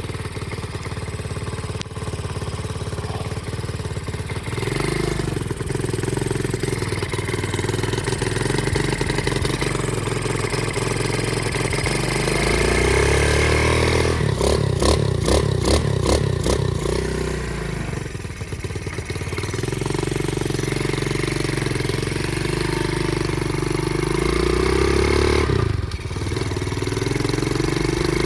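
Flywing pit bike's engine running while ridden, its revs rising and falling, with the throttle easing off briefly about two-thirds of the way in and again near the end. The engine is still cold, and the rider suspects it is running on full choke.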